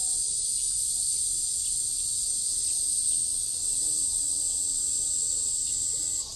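Cicadas singing in a loud, steady, high-pitched drone.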